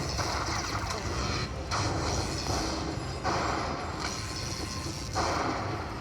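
Lightning Link slot machine spinning, its electronic spin sounds repeating about every two seconds over steady casino background noise.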